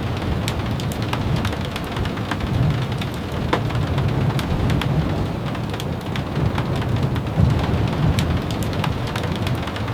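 Steady rain, with many scattered sharp ticks of drops over an even hiss and a low rumble underneath.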